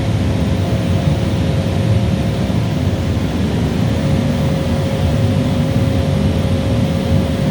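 A Bosch steam boiler plant running: a steady low rumble with a single steady tone above it, unchanging throughout.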